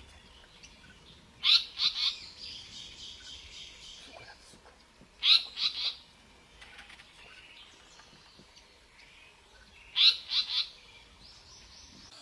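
Tali pocong bird calling: three bursts of quick, high, sharp chirps, each made of about three notes and spaced roughly four seconds apart, with softer buzzy chattering after the first burst.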